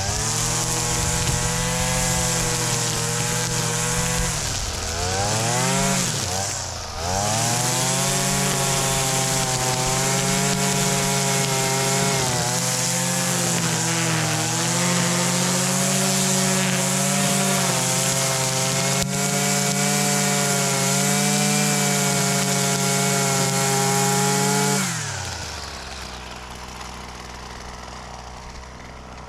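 Husqvarna 326 LD string trimmer's small two-stroke engine running at high revs on its repaired fuel line. The revs dip and climb back a few seconds in, hold steady, then wind down near the end.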